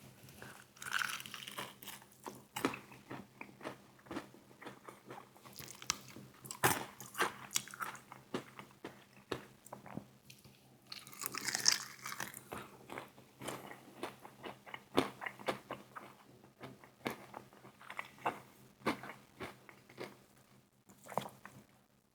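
Close-miked eating of crispy fried chicken wing flats: a steady run of sharp crunches as the breaded skin is bitten and chewed, with a louder burst of crunching about halfway through.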